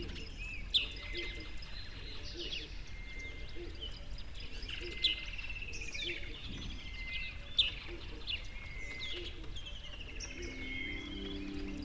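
Several songbirds singing and calling together, a busy mix of short chirps, sweeping notes and trills, with a few louder sharp notes standing out. A steady low hum of several tones comes in near the end.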